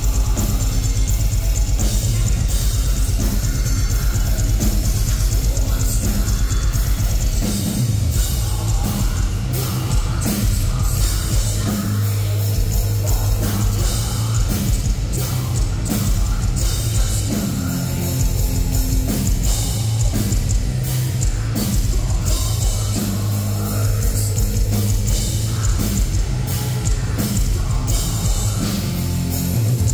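A heavy metal band playing live: loud distorted guitars and a drum kit, with very fast, dense bass-drum hits for the first several seconds before the rhythm opens up.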